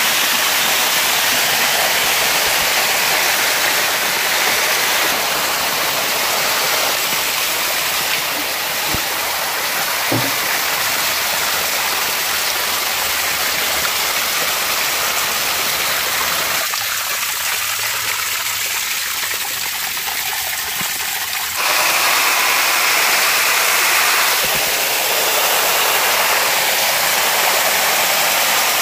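Rushing floodwater: a steady, loud noise of flowing water. It changes abruptly about 17 seconds in, turning thinner, and again about 22 seconds in.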